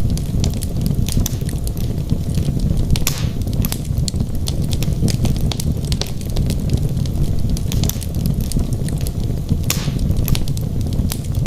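Wood logs burning in a fireplace: a steady low rumble of the fire under frequent sharp crackles and pops, with two brief hisses, one about three seconds in and one near the end.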